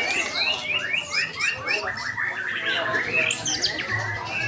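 Several white-rumped shamas (murai batu) singing at once, their songs overlapping. A rapid run of repeated sweeping notes stands out in the first two seconds.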